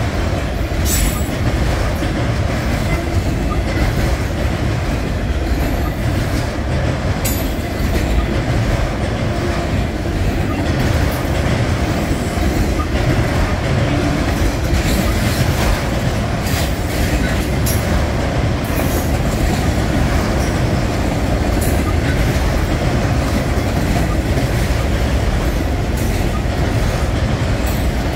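Freight train of autorack cars rolling past at close range: a steady rumble of steel wheels on rail, with a sharp click or clank now and then.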